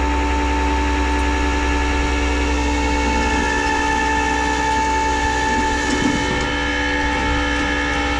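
Flatbed tow truck running its hydraulics for loading: the engine at raised idle drives the PTO hydraulic pump, giving a steady, loud whine in several pitches over a low rumble.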